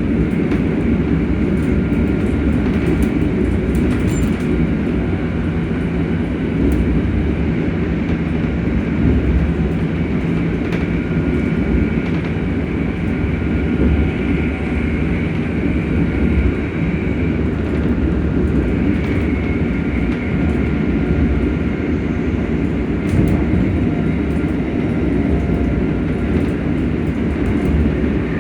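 Hitachi-built ScotRail Class 385 electric multiple unit running at speed, its traction motors humming with faint steady high tones over a continuous low rumble of wheels on track.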